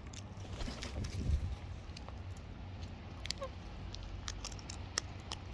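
Cockatoos' beaks and claws making scattered sharp clicks and scratches close by, over a low rumble, with one faint short bird squeak a little past the middle.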